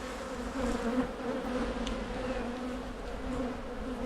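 Honey bees buzzing around an open hive: a steady, wavering drone with a few faint clicks.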